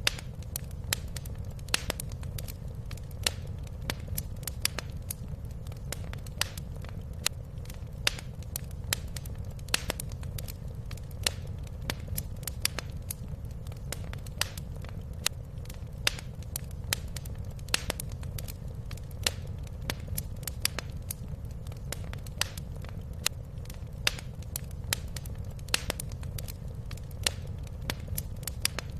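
Wood fire crackling in a fireplace: frequent sharp pops and snaps, at irregular intervals, over a low steady rumble.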